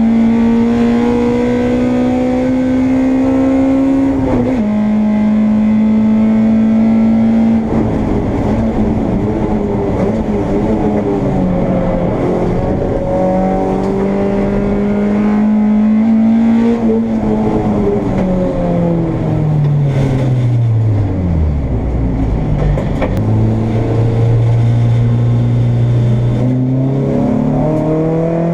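Honda Integra race car's engine heard from inside the car at racing speed: revs climb and drop sharply on an upshift about four seconds in, hold high, then fall steadily for several seconds under braking and downshifts before climbing again as it accelerates out.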